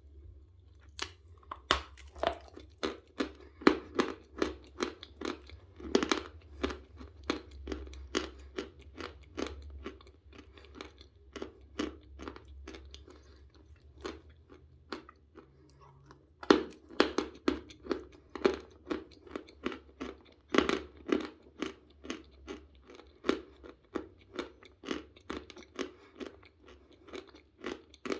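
Close-miked chewing of lumps of natural chalk: dry, sharp crunches several times a second, with a short lull about halfway through.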